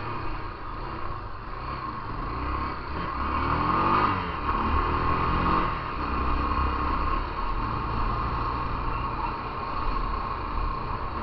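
Motorcycle engine running under way with steady wind and road rush; from about three seconds in the engine revs up, rising in pitch twice as it accelerates.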